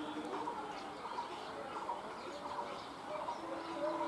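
Small birds chirping in short, scattered calls over faint background noise. About three seconds in, a faint steady tone starts and holds.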